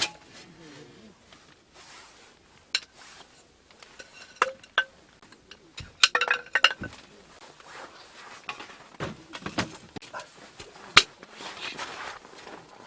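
Scattered light clinks, clicks and knocks of small hard objects being handled, with a cluster of them about halfway through and one sharp loud click near the end, over faint rustling.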